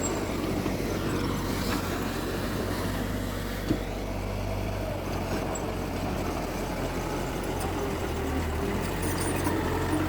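Diesel engine of heavy earthmoving machinery running steadily at a low, even pitch, with one short knock a little over a third of the way in.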